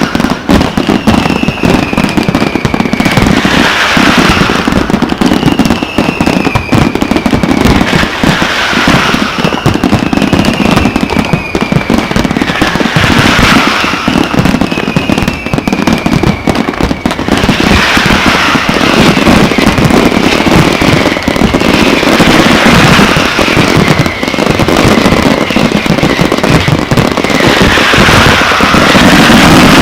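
Fireworks display: a dense, continuous run of bangs and crackling, with high whistles falling in pitch every few seconds.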